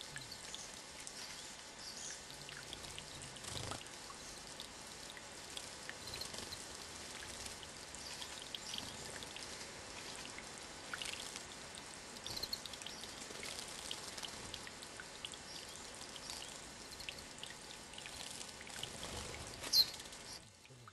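Running water trickling and splashing steadily, with faint short high chirps scattered through it and one louder high call about twenty seconds in.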